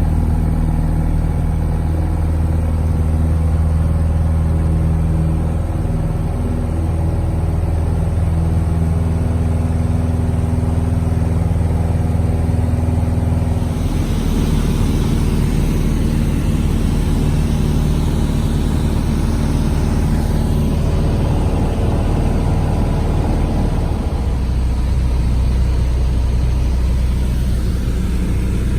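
Small airplane's engine running steadily, heard from on board. About halfway through, its note shifts and a rush of air noise joins in, and near the end the low drone grows stronger.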